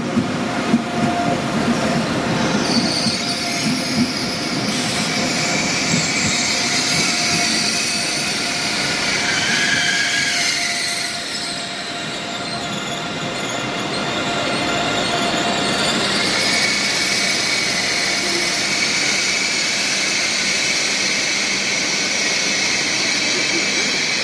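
Deutsche Bahn ICE high-speed train moving slowly along a station platform, its wheels squealing on the rails in several steady high tones over the rumble of the running gear, the rumble strongest in the first few seconds.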